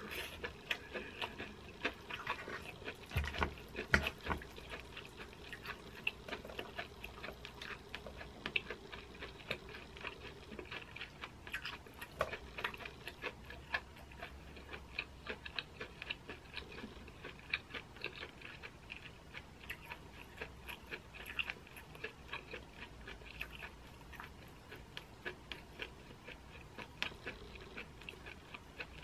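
Chewing a mouthful of corn cheese: many small irregular wet mouth clicks. Now and then a metal fork taps and scrapes the metal baking tray.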